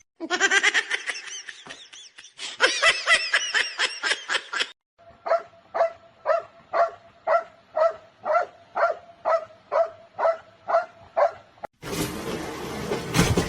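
A pet animal calling: a quick string of high, bending yips, then an even run of short sharp yelps, about two a second. Near the end the calls give way to a dense burst of noise.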